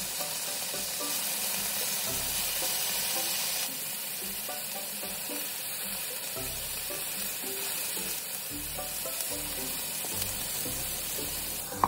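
Chicken tenderloin pieces and blanched broccoli sizzling steadily as they fry in a nonstick frying pan.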